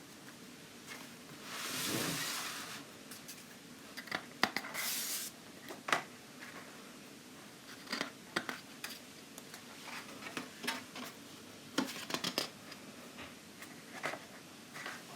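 Thick card pages of a hardback colouring book being turned by hand: a paper swish about two seconds in and another about five seconds in, with light taps and clicks of the stiff pages in between.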